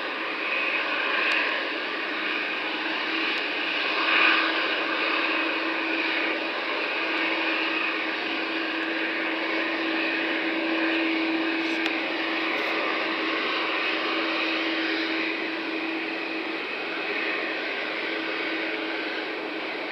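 Jet airliner engines running, a steady rushing noise with a steady low hum and a higher whine over it.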